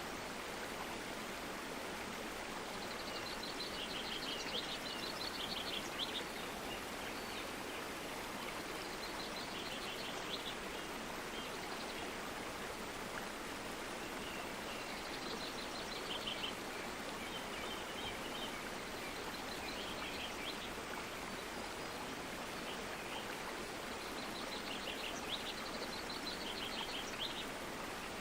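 Steady rushing of flowing stream water, with a songbird singing short rapid trilled phrases every few seconds.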